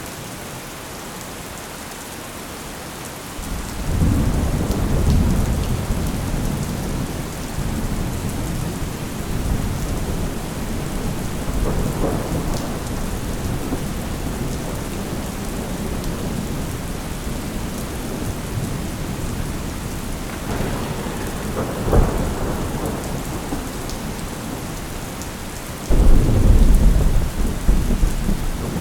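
Thunderstorm: steady rain with rolling thunder. A long low rumble builds a few seconds in, a sharper crack comes about 22 seconds in, and a loud thunderclap breaks suddenly near the end.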